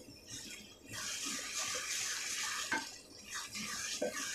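Onion-tomato masala sizzling in oil in an aluminium pan, a steady hiss as it fries down to the point where the oil separates.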